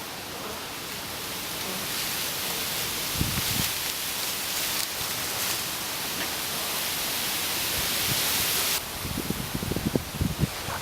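Steady hiss of rain. It drops away suddenly about nine seconds in, and several low thumps follow.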